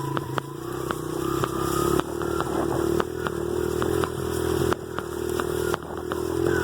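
Dirt bike engine running under throttle, its pitch and loudness climbing and then dropping back several times.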